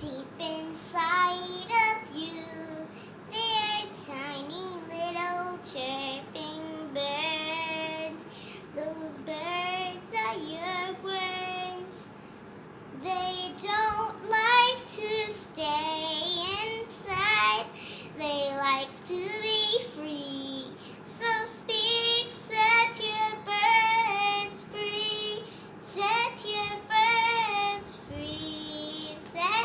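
A child singing a song alone, with no accompaniment, in melodic phrases with short breaks between lines.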